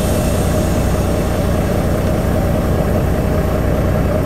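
Semi truck's diesel engine idling steadily, heard from inside the cab, with a steady hum above the engine note.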